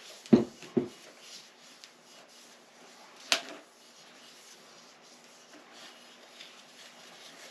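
Handling noises on a workbench: two dull knocks in quick succession near the start, a single sharp click about three seconds in, and faint rustling between.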